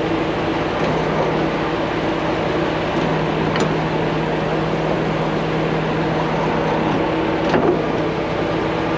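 Large truck engine running steadily, with a couple of faint light clicks.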